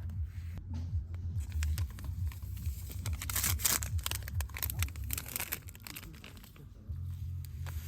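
Rustling and crinkling handling noise made of many small clicks, densest in the middle, over a low rumble.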